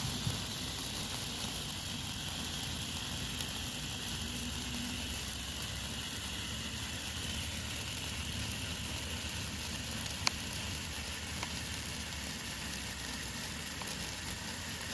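BlackCat FireStix fountain firework burning with a steady hissing spray of sparks and its blue-coloured flame. One sharp pop about ten seconds in.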